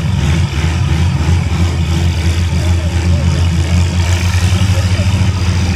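Antique farm tractor engine running loud and steady.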